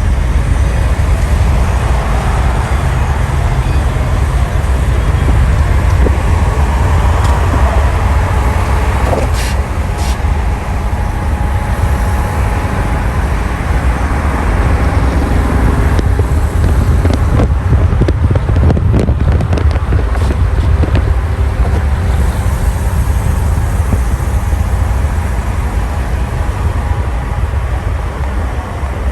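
Road traffic: car engines and tyres in a steady, heavy low rumble, with a few faint clicks.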